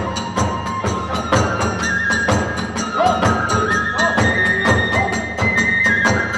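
Kagura ensemble music: a bamboo flute playing long held notes over a quick, even beat of drums and clashing hand cymbals.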